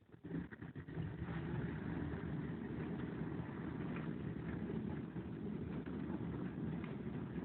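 Bosch dishwasher starting up: a steady rushing hum of its pump and water that comes in and builds over the first second, then runs evenly.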